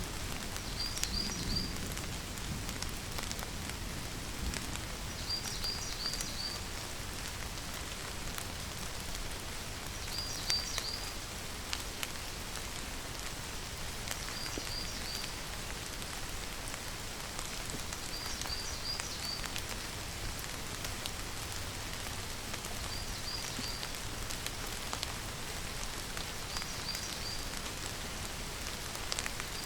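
Steady rainfall with scattered drop ticks. A short high call of three or four quick chirps comes in through it about every four seconds.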